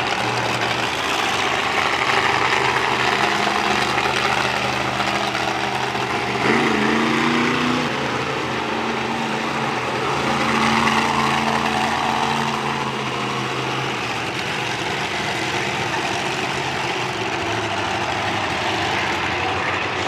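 Monster truck engines running at low revs as the trucks drive slowly, with a short rev about six seconds in.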